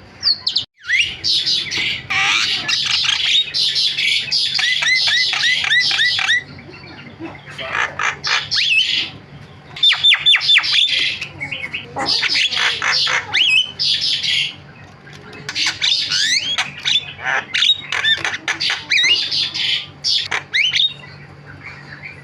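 Javan myna chattering: bursts of harsh squawks and quick runs of sharp rising whistled notes, broken by short pauses.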